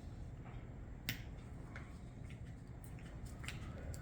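A few faint clicks and taps of small metal carburetor parts and tools being handled while the needle valve seat is worked out, with one sharper click about a second in.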